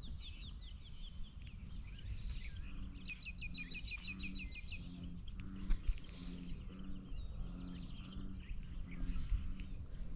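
Birds singing in quick trilled phrases, loudest a few seconds in, over a steady low rumble. A low, two-pitched note repeats about every half second through most of it.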